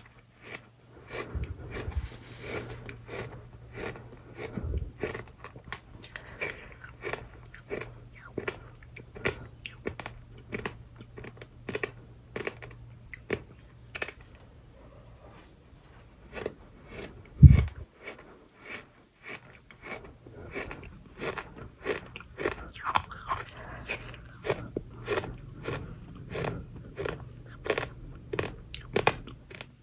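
Dry sand in a plate being cut and crumbled with a spoon: a dense run of crisp crunches and crackles, with a few dull thumps, the loudest a little past the middle, over a faint low hum.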